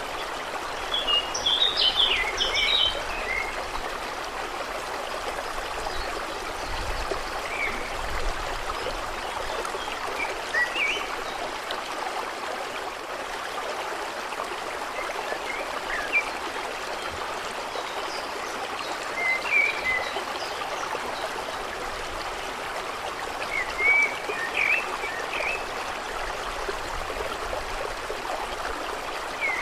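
Steady trickling water at a lake's edge, with scattered short high chirps: a flurry about two seconds in, then a few more every several seconds.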